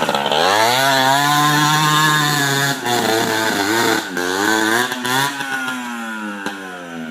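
Dirt bike engine revving hard: it climbs quickly to high revs, holds there with a few brief drops as the throttle is blipped, then winds down gradually near the end.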